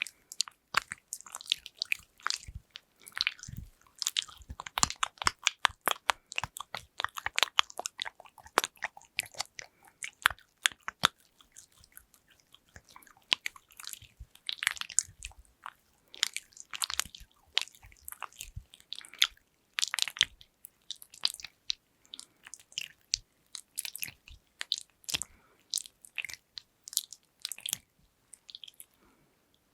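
Close-miked ASMR trigger sounds: quick, crackly clicks and taps in irregular clusters, with a fast run of rapid clicking from about four to nine seconds in.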